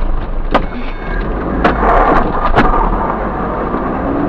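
Four sharp bangs in about two seconds over the steady hum of a vehicle's engine and road noise.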